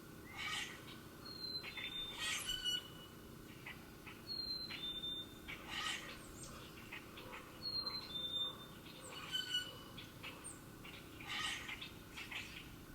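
Wild songbirds singing: a clear two-note whistle, the second note a little lower than the first, repeats three times, mixed with assorted short chirps and calls.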